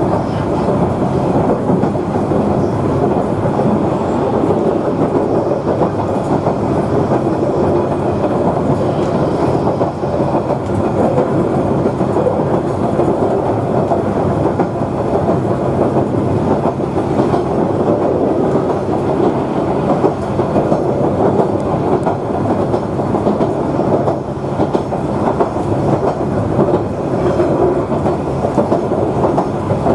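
Queensland Rail 2000 class diesel railmotor running along the line: a steady rumble of wheels on rail and engine, with occasional light clatter.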